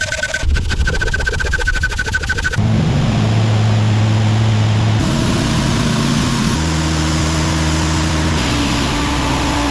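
Engine running: a fast rhythmic clatter at first, then from about two and a half seconds in a steady hum whose pitch jumps to a new level a few times.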